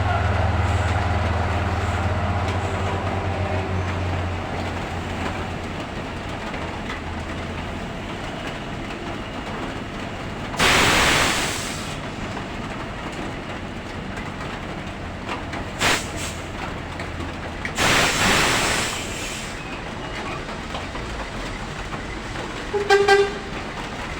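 Heavy dump truck engine running low, fading away over the first several seconds, with loud bursts of air-brake hiss about eleven, sixteen and eighteen seconds in. Near the end a vehicle horn gives a quick run of short toots.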